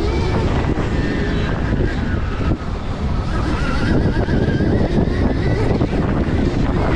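Stark Varg electric dirt bike being ridden hard off-road: the electric motor's whine rises and falls with the throttle, over heavy wind buffeting on the microphone.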